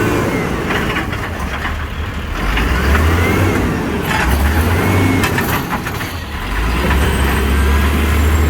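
Garbage truck's diesel engine running and revving up and down, with short rising-and-falling whines and scattered metallic clanks.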